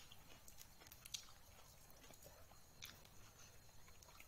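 Near silence with a few faint mouth clicks and smacks of a person chewing food, a little over a second apart.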